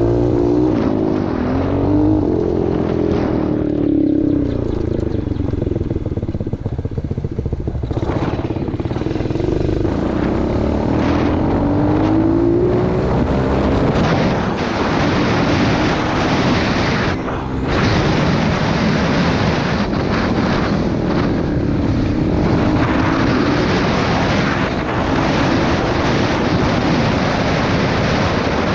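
Pit bike engine running under way, its pitch rising and falling again and again with the throttle, over a steady rush of wind and road noise.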